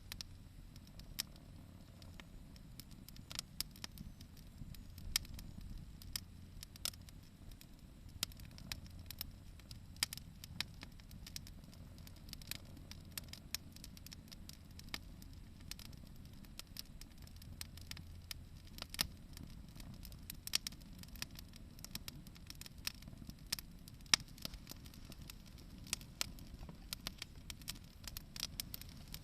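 Wood bonfire crackling: sharp, irregular pops and snaps, a few much louder than the rest, over a low steady rumble.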